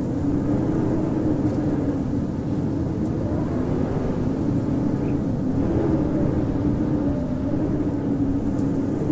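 Howling wind: a steady rush with a low moaning tone that slowly wavers up and down in pitch.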